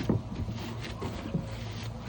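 A plastic wheeled recycling bin being scrubbed and handled, with scattered knocks and scrapes, the loudest right at the start, over a steady low hum.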